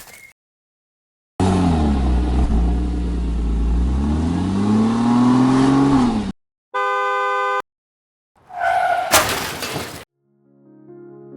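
Edited car sound effects: an engine revving for about five seconds, its pitch dipping and then climbing, then a one-second horn blast and a loud crash with shattering glass. Soft music begins near the end.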